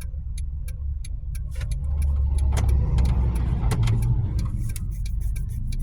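Car engine and road rumble heard from inside the cabin as the car moves slowly and pulls over, swelling a little partway through, with a steady ticking of the turn-signal flasher.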